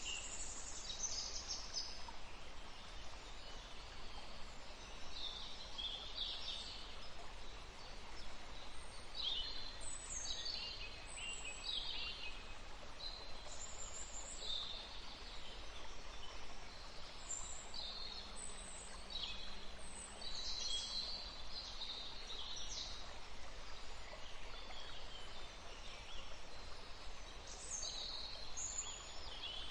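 Songbirds chirping, with many short high-pitched calls scattered throughout over a steady background hiss.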